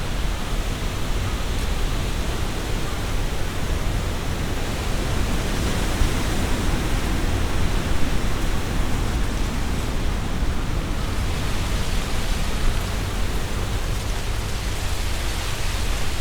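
Strong gusty wind in trees: a steady rustling hiss of leaves that swells and eases with the gusts, over a low rumble of wind buffeting the binaural microphone.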